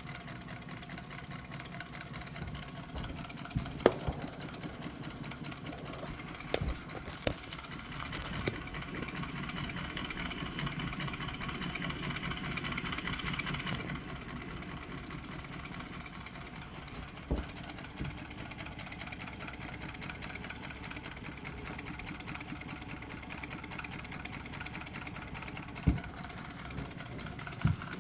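Water-cooled Stirling engine running steadily with a fast mechanical clatter, a little louder for a few seconds in the middle, and a few sharp clicks scattered through.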